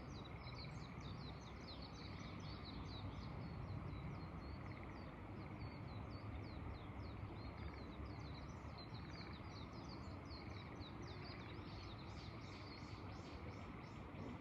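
Small birds chirping in quick, continuous high notes, growing denser near the end, over a steady low wind rumble.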